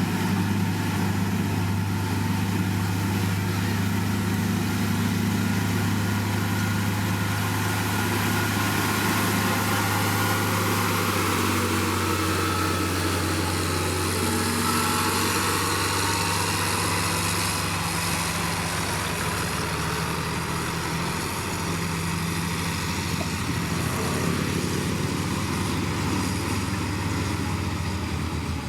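Diesel engine of heavy road-building machinery running steadily, with a deep low hum and some shifts in engine note partway through.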